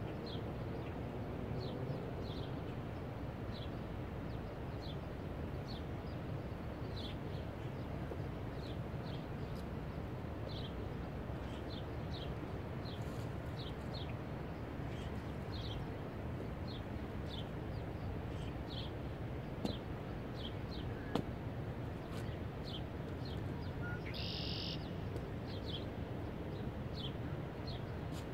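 Small bird chirping, short high chirps about once or twice a second, over a steady low rumble of outdoor background noise.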